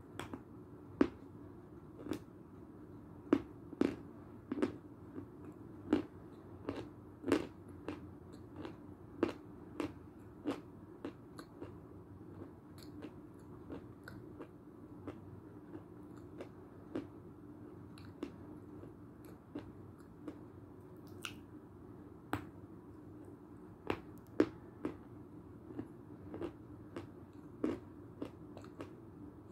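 Belgorod edible chalk being bitten and chewed: an irregular string of sharp crunches and clicks, about one or two a second, thicker and louder in the first ten seconds, over a steady low hum.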